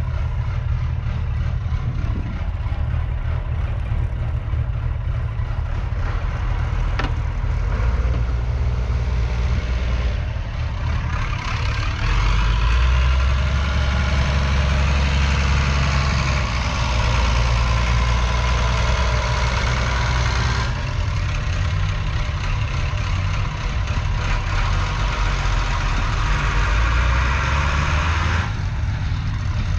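1975 Massey Ferguson 168 Multi Power tractor's 3.9-litre four-cylinder diesel engine running at idle. It speeds up about a third of the way in, runs at higher revs for several seconds, then eases back down near the end.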